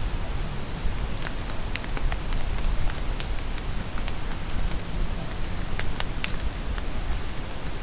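Steady rain falling in a forest, with individual drops tapping sharply and irregularly close by. A faint high bird chirp comes briefly about three seconds in.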